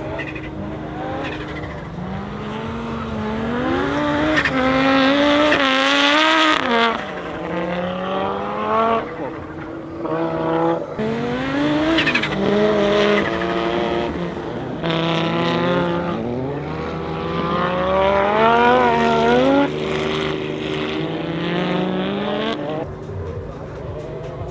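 Audi Sport Quattro S1 E2's turbocharged inline five-cylinder engine being driven hard, its revs climbing and then dropping at gear changes several times before it fades near the end.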